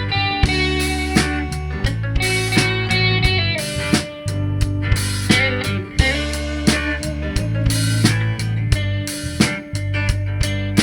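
A live rock band playing an instrumental passage: electric lead guitar over acoustic guitar, bass and a drum kit keeping a steady beat.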